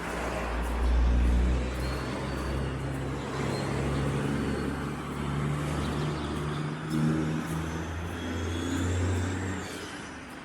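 A motor vehicle's engine running close by, a low steady rumble whose pitch shifts now and then as it revs, fading near the end. A faint high squeal rises and falls over it.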